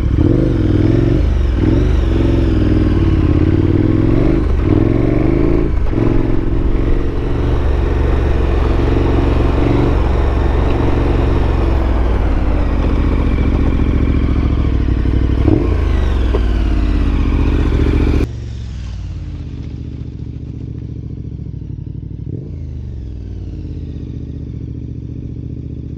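KTM 1290 adventure motorcycle's V-twin engine running on a dirt road, its revs rising and falling. About two-thirds of the way through, the sound drops abruptly to a lower, duller level.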